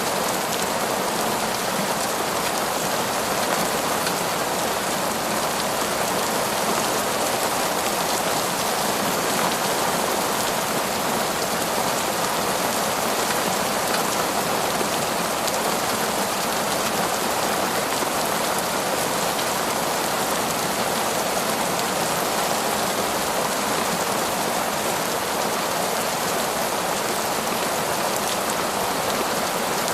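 Heavy, torrential rain falling steadily in a forest, an even, unbroken hiss of countless drops with no let-up.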